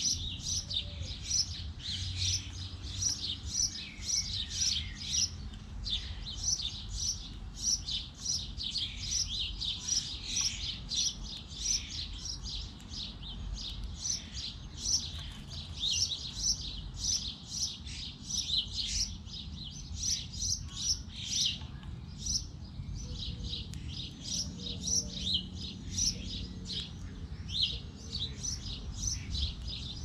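Small garden birds chirping rapidly and repeatedly, about two or three short, high chirps a second, over a faint low background rumble.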